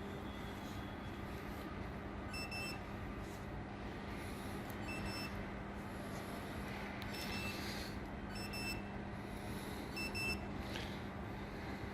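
Five short, high electronic beeps at uneven intervals from order-picking equipment, over a steady low machine hum and factory background noise.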